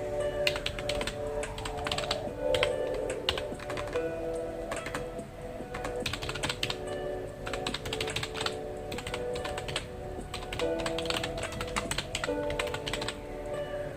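Computer keyboard typing: quick runs of keystroke clicks in irregular bursts with short pauses between, over soft background music of slow held notes.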